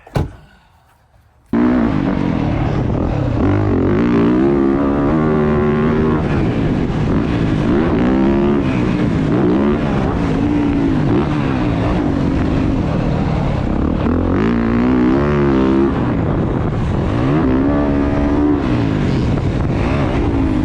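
Dirt bike engines revving up and down over and over as they ride a track. The sound starts suddenly about a second and a half in, after a brief quiet gap.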